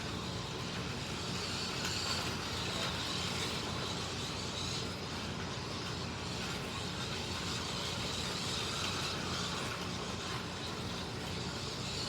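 Racing slot cars (MR Slotcar Cunningham Corvettes and a Scalextric Mercedes 300 SLR) lapping the track: a steady high whine of their small electric motors mixed with the rush of tyres and pick-ups on the plastic track, with no pause.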